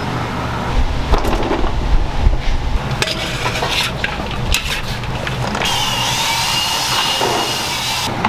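Irregular knocks, scraping and clattering of kitchen tools on a wooden surface. About two-thirds of the way in, a steady hiss with faint wavering high tones takes over, then cuts off abruptly just before the end.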